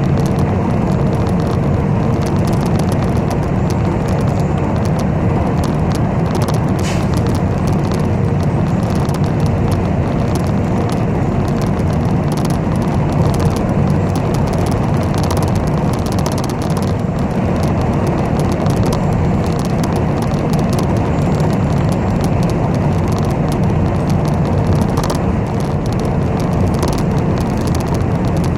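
Steady low engine and road rumble inside a moving city bus, heard from the passenger cabin.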